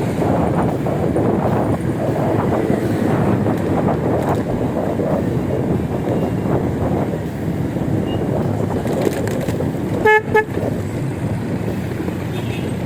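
Steady wind and traffic noise from a moving ride, broken about ten seconds in by two short horn toots.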